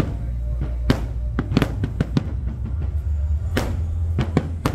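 Aerial fireworks bursting overhead: a string of sharp, irregularly spaced bangs and crackles, about nine in all, the loudest a little past halfway. A steady low rumble runs underneath.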